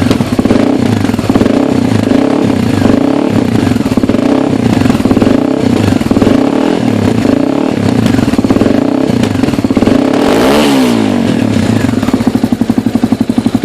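Honda CBX250 Twister's single-cylinder four-stroke engine running through an aftermarket COTT exhaust, with one quick rev up and back down about ten and a half seconds in. The exhaust note pulses unevenly near the end.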